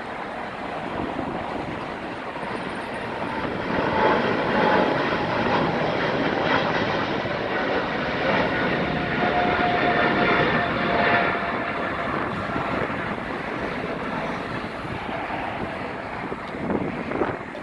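Jet airliner's engines passing by: a broad rushing noise that builds about four seconds in, stays loud for several seconds with a faint whine in it, and eases off toward the end.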